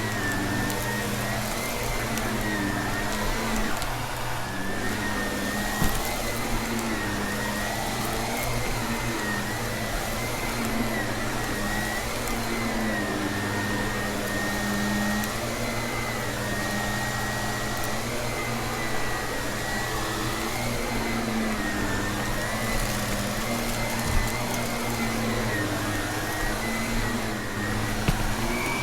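Vacuum cleaner running steadily, its motor whine wavering slightly in pitch, with a few sharp ticks of crunchy debris being sucked up.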